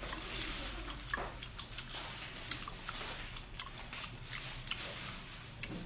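Close, wet chewing and biting of a piece of boiled octopus tentacle, with many small sharp mouth clicks and smacks.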